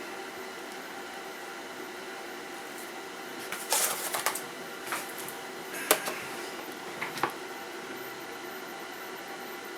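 A few short clicks and scrapes of small tools and parts being handled on a workbench, over a steady electrical hum. The sharpest click comes about six seconds in.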